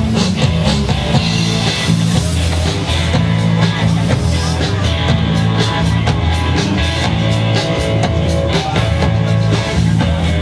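Live band playing rock music, with guitar and drums.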